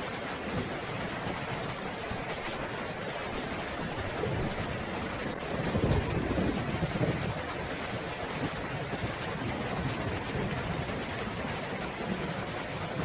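Steady rainfall with a low roll of thunder swelling up about halfway through and fading over a couple of seconds.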